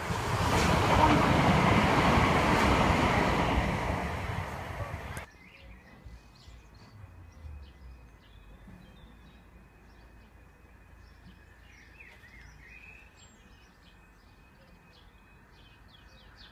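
A passenger train passing close by on the line: a loud rushing rumble that builds and fades, cut off abruptly about five seconds in. After that, quiet outdoor background with faint bird chirps.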